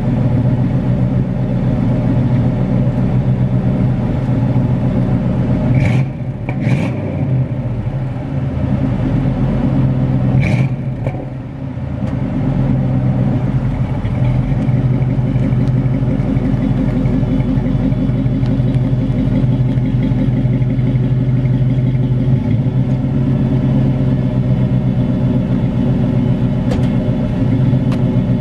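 Chevy small-block 305 V8 running through Delta 40 Flowmaster mufflers with side-exit tips: a loud, steady low exhaust drone that dips briefly twice, about six and eleven seconds in.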